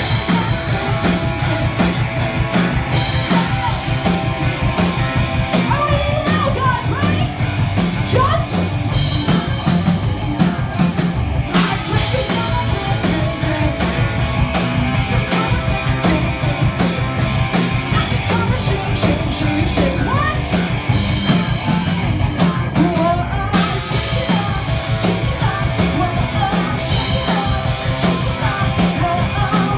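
Heavy metal band playing live: distorted electric guitars, bass and a fast drum kit, with vocals in places.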